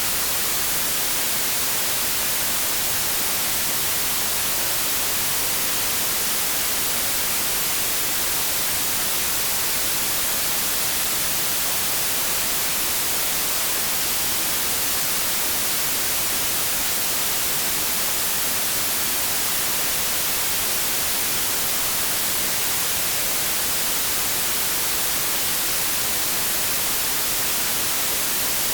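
Continuous synthetic white noise: an even, steady hiss with no tones or changes, strongest in the high frequencies.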